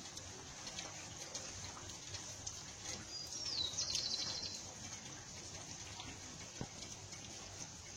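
A bird calls once about halfway through: a short high note, a falling glide, then a quick trill. A steady high hiss with faint scattered ticks runs underneath.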